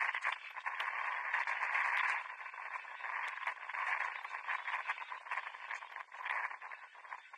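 Muffled, narrow-sounding ambience of a football match in play: a steady noisy haze with scattered short knocks and distant voices.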